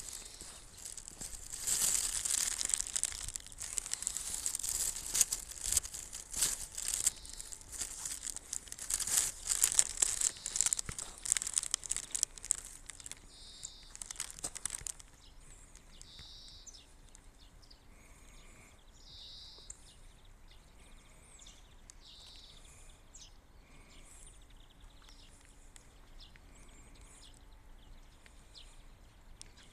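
Footsteps crunching through snow, a dense crackling that stops about halfway through. After that a small bird calls again and again, roughly every three seconds.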